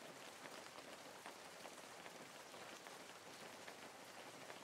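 Faint, wet crackling and squishing of hands kneading and squeezing grated coconut soaked in water in a metal basin, pressing out the coconut milk, with scattered small ticks.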